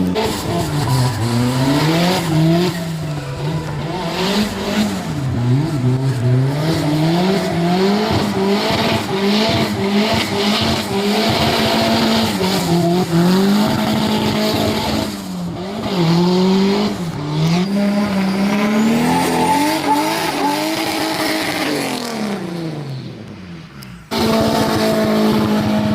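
Drift car engine revving up and down over and over through a slide, with tyre noise over it. Near the end the sound fades away, then cuts abruptly to a steady engine note.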